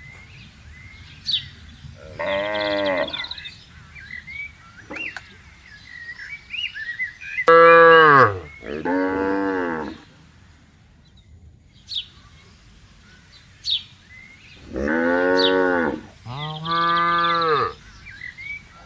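Cattle mooing: five long calls, a single one, then a pair about eight seconds in with the first call the loudest, then another pair near the end.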